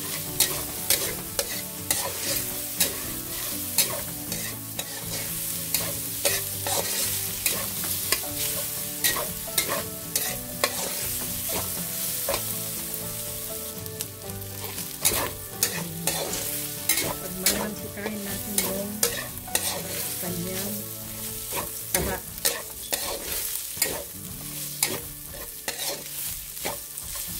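Fatty diced pork and garlic sizzling in a hot wok, with a spatula scraping and clicking against the pan as the meat is stirred in quick, irregular strokes.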